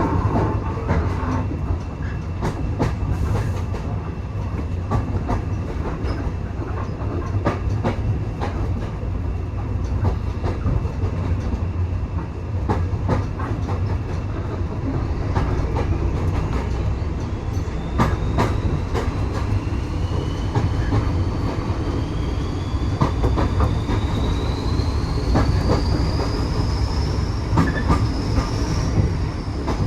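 Railway carriage running along the track: a steady low rumble with repeated clicks of the wheels over the rail joints. From about halfway, a thin high squeal of the wheels comes in and rises slowly in pitch toward the end.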